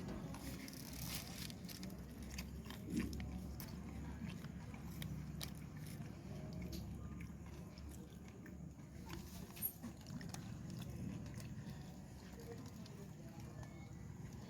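Someone biting and chewing vada, the fried lentil fritter, with faint crunches and scattered small mouth clicks.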